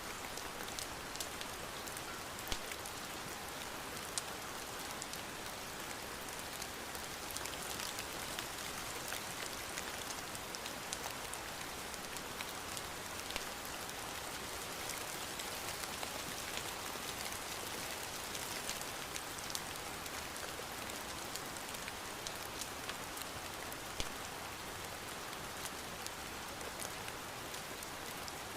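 Steady rain pattering, an even hiss sprinkled with many small sharp ticks. A few louder pops stand out about two and a half seconds in, around four seconds and near the end.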